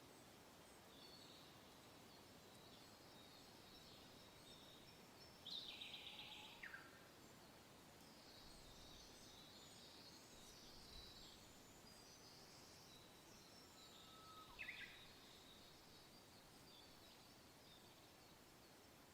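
Faint nature ambience: a soft, steady hiss of wind with many small birds chirping high and thin. Two louder bird calls, each falling in pitch, stand out about a third of the way in and again about three-quarters through.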